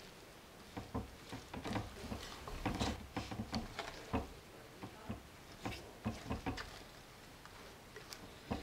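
Thick, gooey chocolate cookie dough being stirred by hand in a bowl: irregular soft taps and scrapes of the mixing utensil against the bowl as the flour and chocolate chips are worked in.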